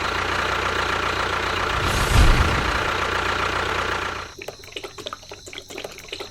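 A small motor running steadily, briefly louder about two seconds in, then stopping after about four seconds and leaving a series of light clicks.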